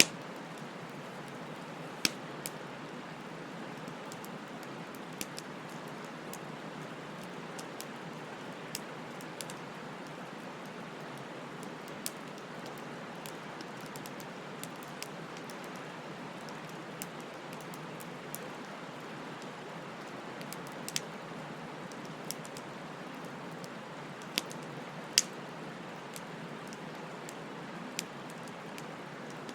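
Bonfire burning: a steady hiss of flames with scattered sharp crackles and pops of burning wood, the loudest about two seconds in and again near the end.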